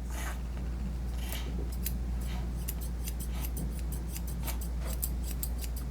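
Grooming shears snipping hair in quick repeated cuts, sparse at first and then about three or four snips a second, over a steady low hum.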